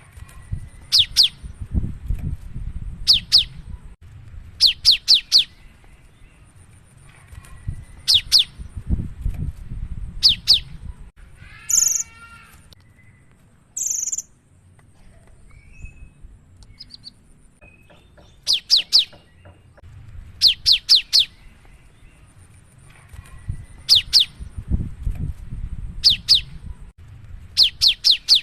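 Cinereous tit (gelatik batu) singing its bright song: quick clusters of two to four sharp, high, falling notes, repeated every second or two. Partway through the song pauses, and two brief harsher calls come in before it resumes. A low rumble runs underneath.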